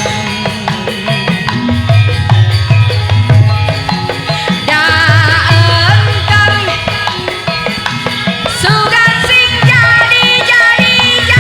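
Javanese gamelan ensemble playing an instrumental passage. Kendang hand drums beat a steady rhythm under a wavering melodic lead line.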